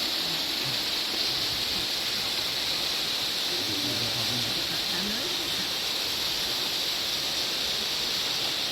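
Waterfall rushing as a steady, unbroken hiss of falling water, with faint voices in the background about halfway through.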